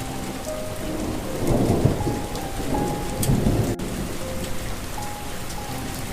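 Steady rain with thunder rumbling twice, about a second and a half in and again around three seconds in, under a slow melody of long held notes.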